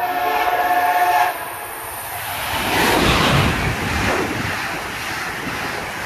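Amtrak Acela Express train sounding its horn in one blast of just over a second, then rushing past at speed with a loud rumble of wheels and wind.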